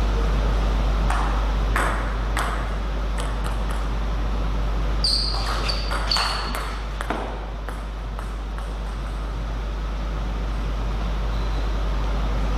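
Celluloid-type table tennis ball knocking against bats and bouncing on the table: a quick, irregular run of sharp pings and clicks during the first seven seconds, then only a steady low electrical hum.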